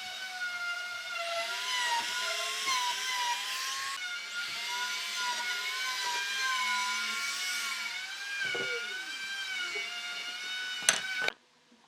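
A high-pitched power tool motor whining at speed, its pitch sagging and recovering as it works the wood. It cuts off suddenly, with a sharp click, about 11 seconds in.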